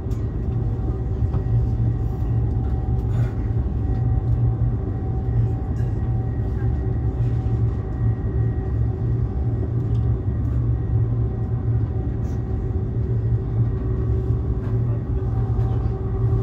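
Cabin noise of a high-speed train running at speed: a steady low rumble with a constant hum over it.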